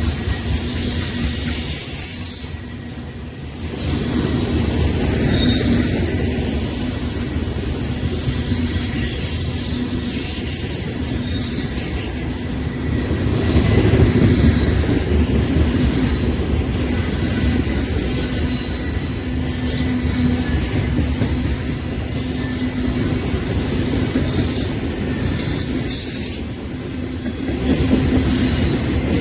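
Train cars rolling past on the rails: a steady rumble and clatter of wheels, with some wheel squeal.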